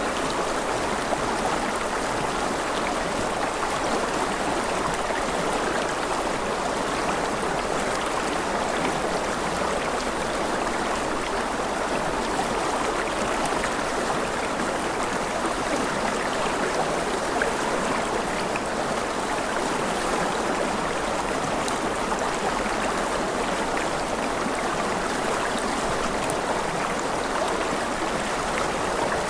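Steady, unbroken sound of flowing water, like a stream running continuously, with no change in level.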